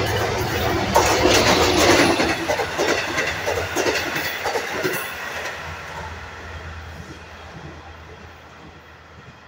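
Long Island Rail Road express train passing at speed without stopping: double-deck coaches behind a diesel locomotive rushing past, wheels clattering over the rail joints. The noise fades steadily over the last few seconds as the train moves away.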